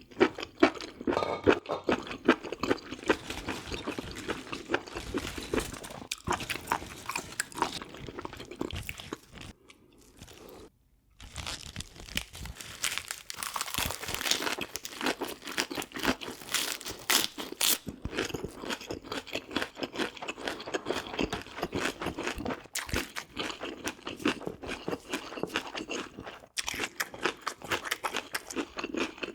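Close-miked eating of spicy braised pork ribs with bean sprouts: steady wet chewing and crunching in quick small bites, with a brief near-silent break about ten seconds in.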